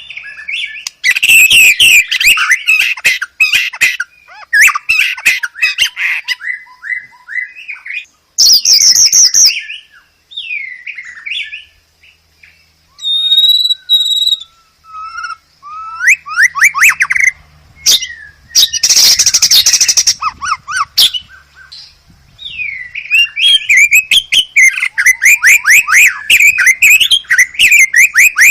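White-rumped shama (murai batu) singing a varied song of fast trills and whistled phrases in bursts with short pauses. There is a harsh rasping note about two-thirds of the way in and a long run of rapid trills near the end.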